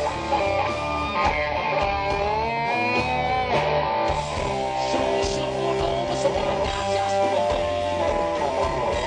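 Live rock band playing, with an electric guitar carrying a lead line of bent, sliding notes over the bass and drums.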